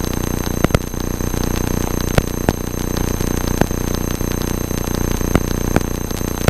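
Cessna 172 cabin in flight: the engine and propeller drone steadily, with a steady high electrical whine and irregular sharp clicks of interference on the recording.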